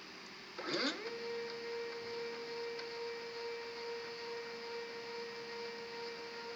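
Stepper motors driving the gantry of a 3D-printed CNC foam cutter. About half a second in, a whine rises in pitch as the motors speed up, then holds one steady pitch for about six seconds while the gantry travels. At the very end it falls in pitch as the motors slow to a stop.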